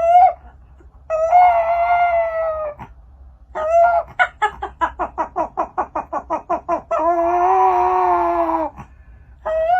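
Animal calling loudly: two long drawn-out wails with a rapid run of short, evenly spaced calls, about six a second, between them.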